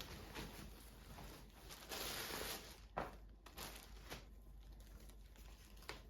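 Soft rustling and crinkling of handled material. There is a stronger rustle about two seconds in, then a sharp click and a few lighter taps and clicks.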